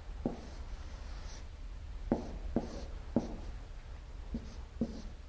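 Hand writing strokes: a handful of short, unevenly spaced scratches and taps of a writing tool on a surface as Chinese characters are written, over a faint steady low hum.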